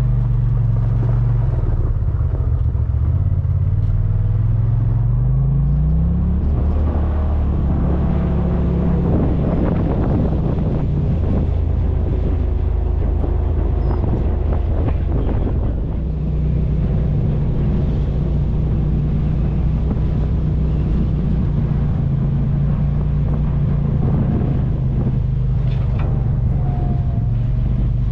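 Side-by-side UTV engine running while driving. It climbs in pitch as it speeds up from about two to six seconds in, then runs steadily.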